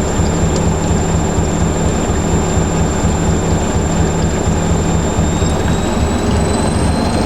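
Hoover SIX Inter@ct AAA Whisper 1600 washing machine spinning at speed: a steady rumble of the drum with a high motor whine that rises slightly in pitch about five seconds in as the spin speeds up.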